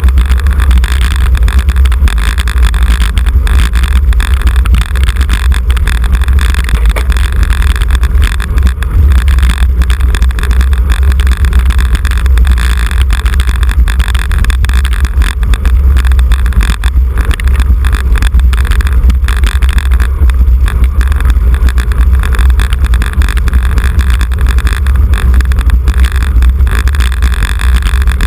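Wind buffeting the microphone of a camera riding in a bicycle road race: a loud, steady, low rumbling rush with no breaks.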